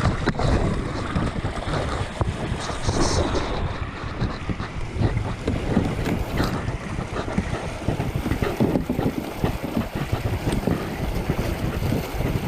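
Wind buffeting a GoPro's microphone over water around a river kayak, with dense crackling and scratching rubs throughout, typical of a lifejacket scraping against the camera.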